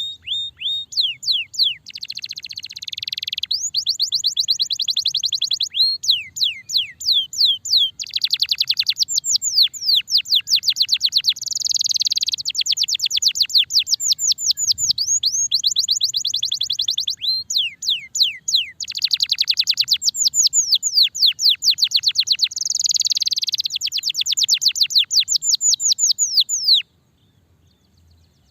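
Domestic canary singing a long, almost unbroken song of rapid trills, fast runs of repeated sweeping notes. It breaks off suddenly shortly before the end.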